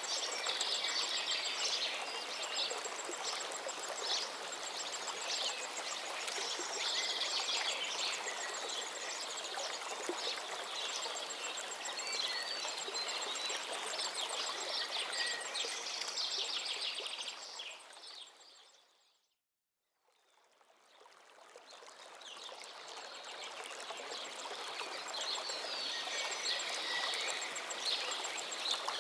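Lakeside ambience: many small birds chirping and trilling over a steady, even hiss. About two-thirds of the way through, everything fades out to a moment of silence, then fades slowly back in.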